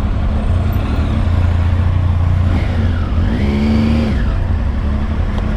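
Triumph Tiger motorcycle's three-cylinder engine running at low speed, a steady low drone. A little past three seconds in a brief stacked tone rises in pitch and then holds for about a second.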